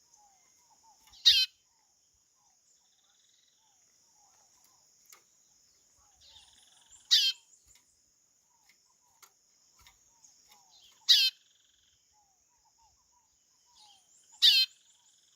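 Chorão (white-bellied seedeater) calling: four loud, short calls a few seconds apart, each a quick run of notes sweeping downward. A steady high-pitched insect drone and faint small chirps run underneath.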